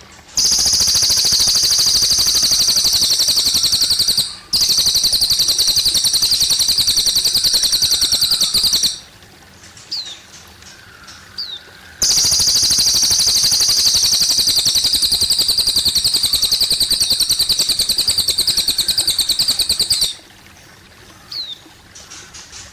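Cililin bird singing a very rapid, high-pitched trill in three long bouts: two of about four seconds each, then one of about eight seconds. Trickling water runs underneath, and in the gaps there are a few short, single falling chirps.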